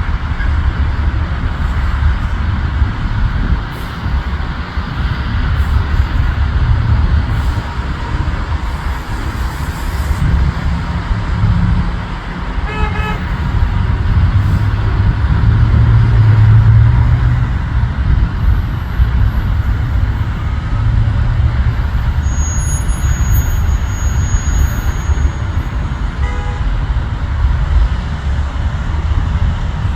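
Steady, loud, low engine rumble, with a short horn toot about 13 seconds in and another about 26 seconds in.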